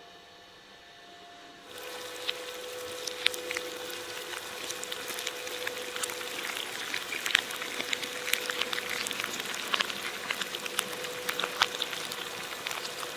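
Electric shredder running with a steady hum, its cutters crackling and popping through soft material. The sound starts suddenly about two seconds in.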